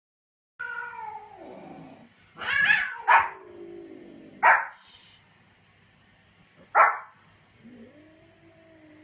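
A small white spitz-type dog giving short, sharp barks a second or two apart. A long falling cry comes before the barks, and a low drawn-out wavering growl near the end.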